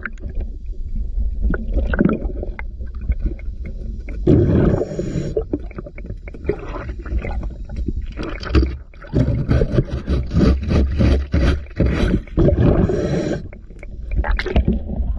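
Underwater sound: a steady low water rumble with loud gurgling bursts of a scuba diver's exhaled bubbles, once about four seconds in and again in a longer run from about nine to thirteen seconds.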